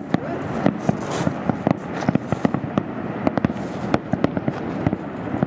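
Fireworks finale barrage: aerial shells bursting in quick succession, several sharp bangs a second overlapping one another over a continuous rumble.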